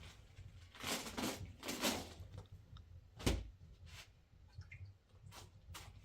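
Indoor handling noises: two brief rustling swishes, then a sharp knock about three seconds in, followed by a few lighter clicks.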